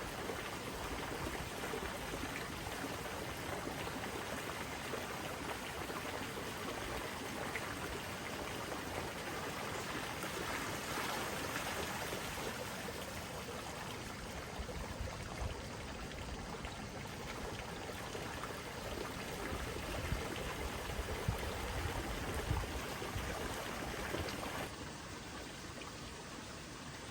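Steady noise of running water. The higher hiss thins and the level drops a little near the end.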